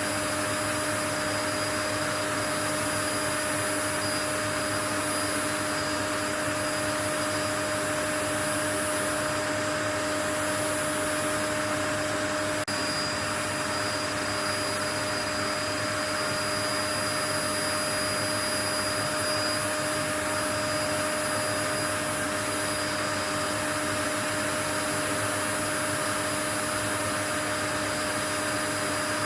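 Steady, unchanging white-noise track: an even rushing hiss with a constant motor-like hum and a thin high whine running through it.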